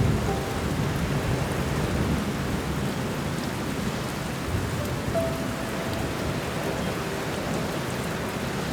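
Steady rain with a low rumble of thunder underneath, and a few soft piano notes held faintly over it.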